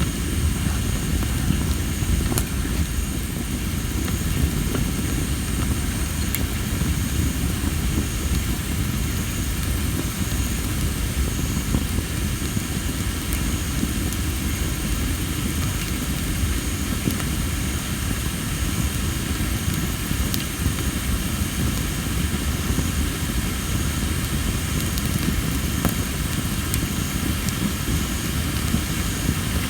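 Campfire of tree-of-heaven (Ailanthus) wood burning with a steady low rumble and a few sharp crackles. Insects chirp steadily in the background, one in an even pulsing rhythm.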